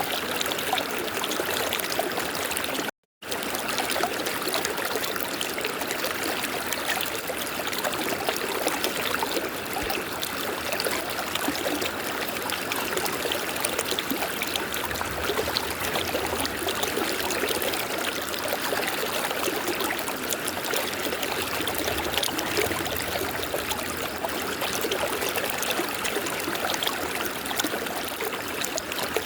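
River water running and splashing over rocks in a steady rush, cut by a split-second dropout to silence about three seconds in.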